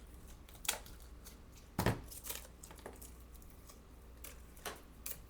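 Small clicks, rustles and taps of artificial flowers being pulled from a vine and handled on a craft table, with one louder knock about two seconds in.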